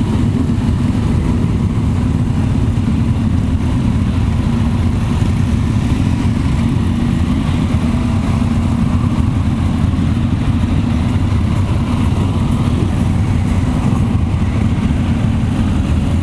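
Helicopter flying close overhead: a loud, steady rumble of its rotor and engine that does not change.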